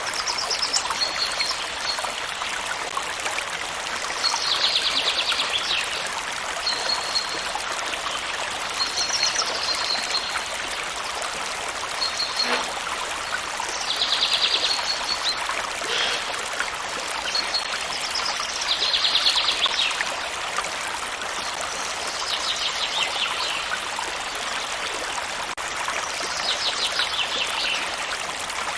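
Steady rush of a running stream, with a bird singing a high trilled phrase about every four to five seconds and short high whistled notes in between.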